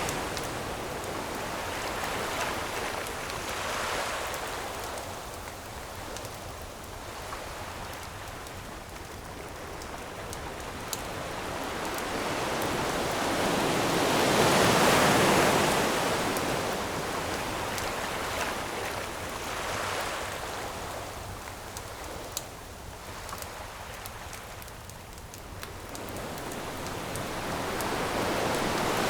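Ocean waves washing onto a shore, swelling to a peak about halfway through and building again near the end, with a few faint pops of a crackling wood campfire.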